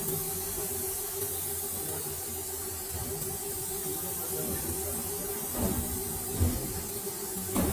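Steady hissing noise over a low hum, with a few light knocks in the second half.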